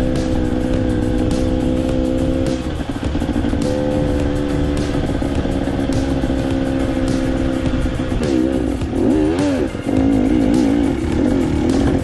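Dirt bike engine running at a steady pitch, then revving up and down several times in the last few seconds, with background music underneath.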